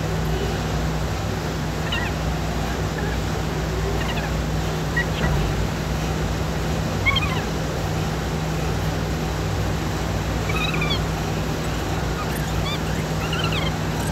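Birds chirping in short, scattered calls, more often in the second half, over a steady low hum.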